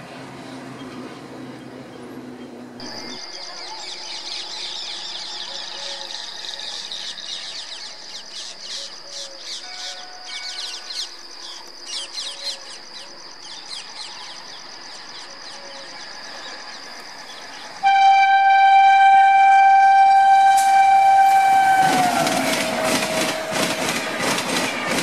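Indian Railways locomotive approaching with a steady high whine and faint rhythmic clicks, then sounding one long, loud horn blast that drops in pitch as the locomotive passes. A train of LHB coaches follows, rushing past with rapid wheel clatter.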